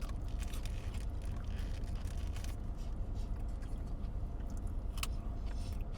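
Steady low hum inside a parked car's cabin, with faint chewing of food and a few brief clicks.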